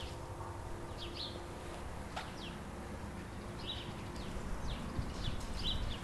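Birds chirping in short, quick downward notes, repeated many times and busier in the second half, over a low steady rumble.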